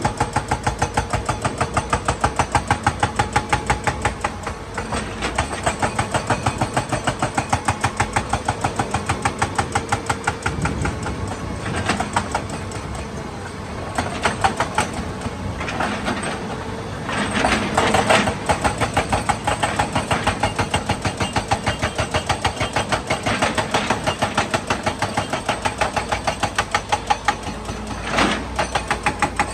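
Excavator's diesel engine running with a fast, even pulsing beat, swelling into louder, noisier spells a little past the middle and briefly near the end.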